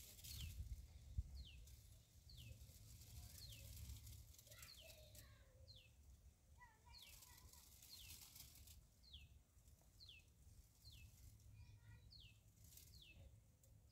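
Faint bird chirping: short, falling high-pitched chirps repeated one or two times a second, over a low rumble, with a single sharp knock about a second in.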